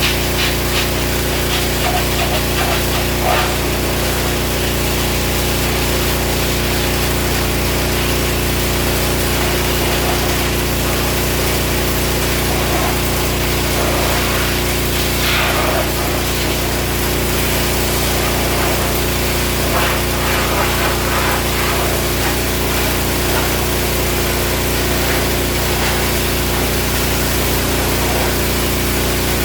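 Pressure washer running steadily at about 3,400 psi, its spray blasting degreased grime off a truck frame.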